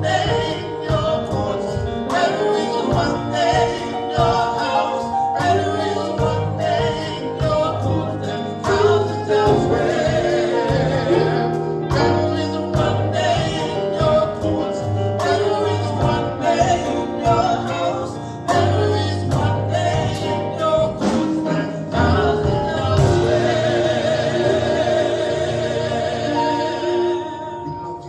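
Live gospel praise band playing with singing: bass, keys and drums with a steady beat, easing near the end into a held cymbal shimmer.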